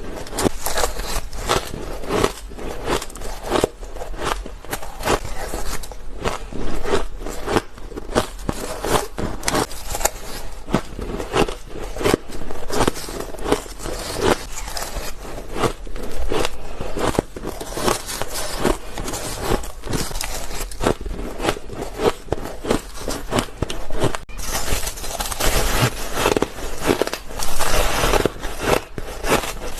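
White ice being bitten and chewed close to the microphone: a rapid, continuous run of crisp crunches and crackles, with a brief break about 24 seconds in before a denser stretch of crunching.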